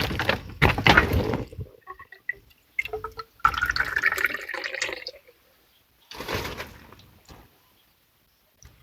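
Water splashing and pouring in irregular bursts, with drips, stopping near the end.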